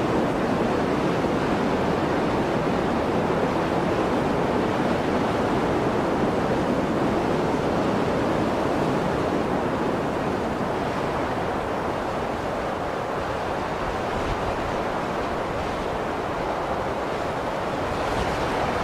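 Blizzard wind blowing as a steady rushing noise, easing slightly about halfway through and swelling again near the end.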